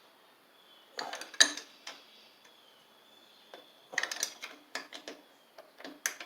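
Metal clicks and clinks from a wrench tightening the mounting bolts of a replacement starter on a lawn tractor engine. They come in a few short, irregular clusters.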